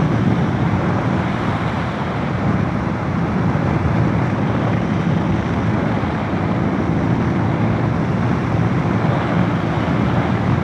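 Steady wind rush and road noise from a motorcycle travelling at road speed, with the engine running underneath and no change through the stretch.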